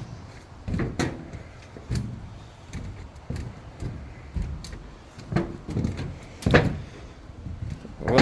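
Footsteps crossing a roof: separate thuds and knocks about once a second, in a walking rhythm.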